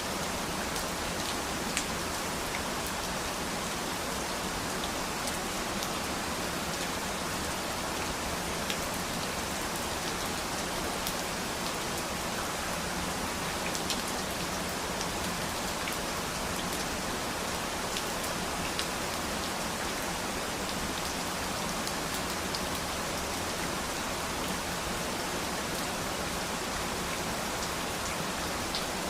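Steady rain falling and pattering on surfaces, with scattered individual drops ticking now and then.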